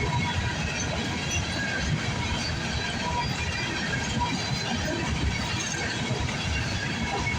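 Freight train rolling past: the rumble of loaded-free coal cars' wheels on the rails, steady throughout, with a chorus of night insects above it.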